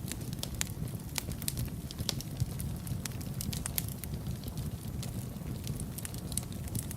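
Wood fire in a fireplace crackling and popping, with sharp irregular snaps over a steady low rumble of the flames.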